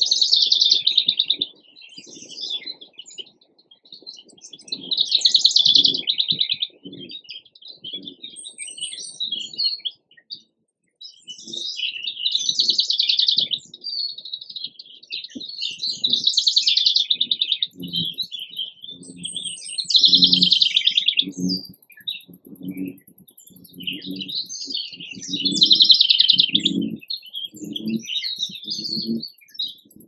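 Songbirds singing and chirping, with a loud song phrase every four to five seconds and quieter chirps in between. From about the middle on, short low pulses come about once a second beneath the birdsong.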